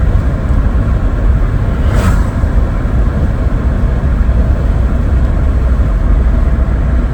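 Driving noise heard from inside a 1992 Vauxhall Cavalier on the move: its 2.0-litre 8-valve four-cylinder engine and the tyres on the road make a steady low rumble. A brief whoosh sounds about two seconds in.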